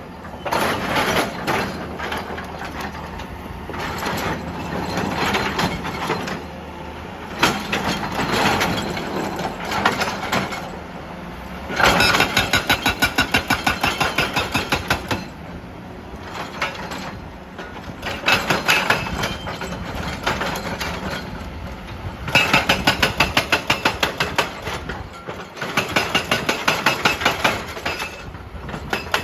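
Excavator-mounted hydraulic rock breaker hammering rock in bursts of rapid blows, each lasting a few seconds, over the steady running of the excavator's diesel engine.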